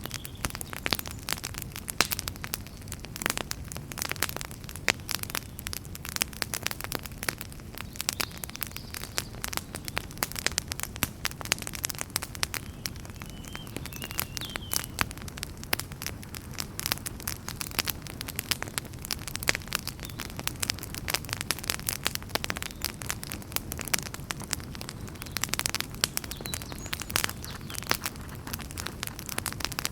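Wood fire in a fireplace crackling: dense, irregular pops and snaps over a low, steady rumble of burning.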